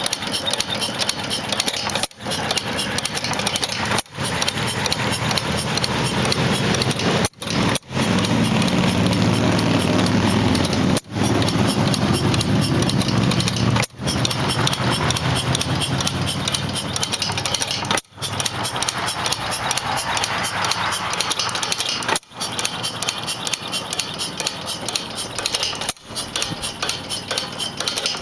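Circa 1895 Pierce inverted 3/4 hp hit-and-miss engine running, a rapid clatter of strokes with a heavier stretch of low firing about a third of the way in as the governor lets it take power strokes. The sound cuts out for an instant several times.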